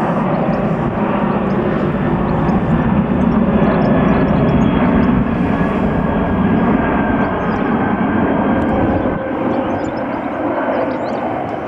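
Jet noise from a Boeing C-17 Globemaster's four turbofan engines as the aircraft flies past. It builds to a peak about halfway through, then slowly fades away.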